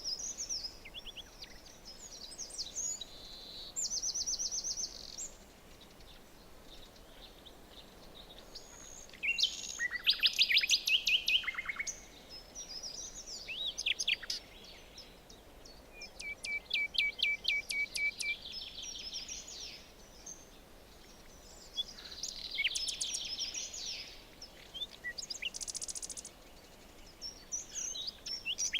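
Several songbirds singing and calling at once, a mix of trills, rapid runs of repeated notes and short chirps, with the loudest songs about a third of the way in and again just past the middle, over a faint steady hiss.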